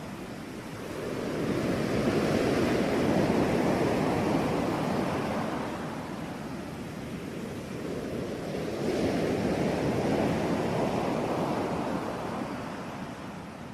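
Sea waves washing in and drawing back, rising and falling in two slow swells, the first about two seconds in and the second about nine seconds in.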